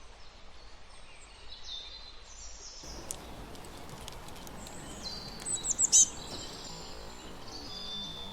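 Wild birds chirping and calling over a steady background hiss, with a quick run of loud chirps about six seconds in and a long, high, steady whistle near the end. The background grows fuller abruptly about three seconds in.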